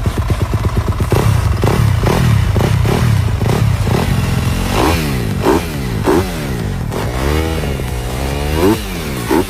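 Motocross dirt bike engine revved loudly in quick repeated throttle blips, the pitch jumping up and falling back about every half second, with one longer rev in the last few seconds.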